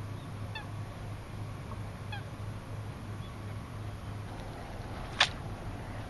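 Two short, pitched bird calls about a second and a half apart, over a steady low hum. A single sharp click about five seconds in is the loudest sound.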